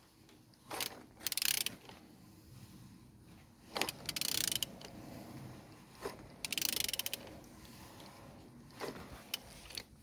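A ratchet wrench turning the crankshaft of an A20DTH diesel engine over by hand, in three separate strokes, each with a run of fast ratchet clicks and some light knocks in between: a hand turn-over check that the engine rotates freely.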